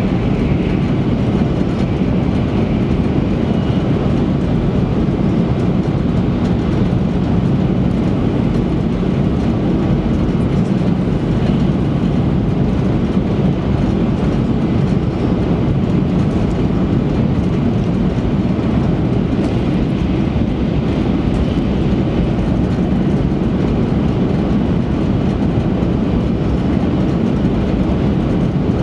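Interior cabin noise of an E3-series Shinkansen train running at high speed: an even, steady low noise without breaks.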